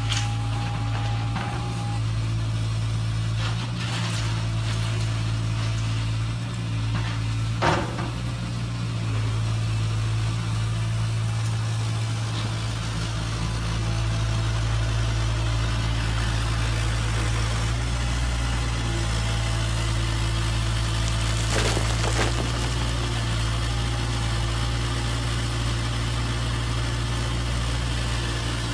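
Radio-controlled model construction machines, a Huina 1580 metal excavator and an RC dump truck, running with a steady low motor hum. Sharp knocks sound about 4, 8 and 22 seconds in, the one about 8 seconds in the loudest.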